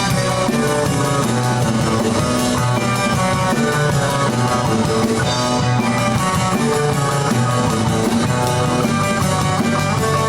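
A rock band playing an instrumental passage of a song with electric guitar and drum kit, no vocals.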